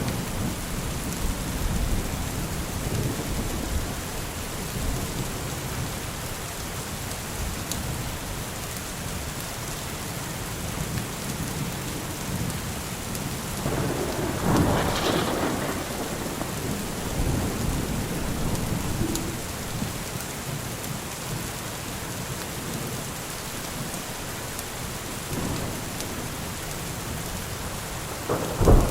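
Steady rain with low rolling thunder. A louder rumble of thunder swells about halfway through, and a sharp crack of thunder comes near the end.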